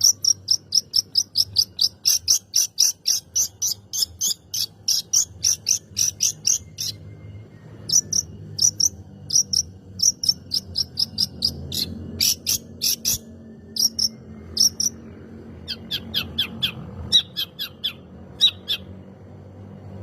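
Long-tailed shrike (cendet) in full song: a rapid run of sharp, high chattering notes, about four or five a second, that breaks off about seven seconds in and then resumes in shorter spaced bursts, some of them lower.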